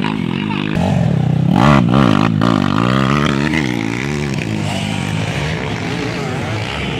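Dirt bike engines revving up and down repeatedly as the motorcycles race.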